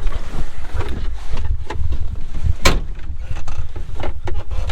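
Wind buffeting the microphone as a loud, gusty low rumble, with a few handling knocks and one sharp click a little past halfway.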